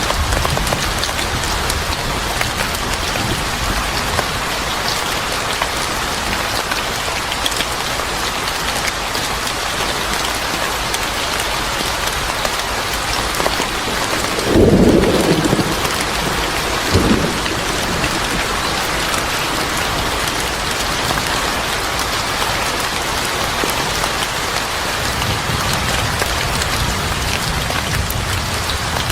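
Steady heavy rain falling, with a short low rumble of thunder about halfway through and a smaller one a second later.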